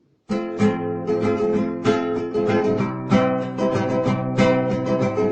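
Music of a strummed acoustic guitar, starting suddenly about a quarter second in and going on with repeated chord strokes.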